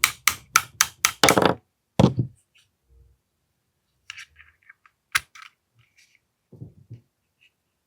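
A quick run of sharp clicks, about six in the first second and a half, then a single loud click and scattered lighter clicks and soft knocks: the parts of an AAP-01 gas airsoft pistol being handled and clicked into place during reassembly.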